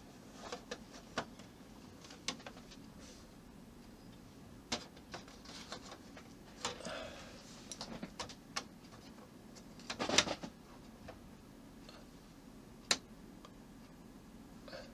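Small model-kit parts being handled and fitted on a work surface: scattered light clicks and taps, with the sharpest knock about ten seconds in and another near thirteen seconds.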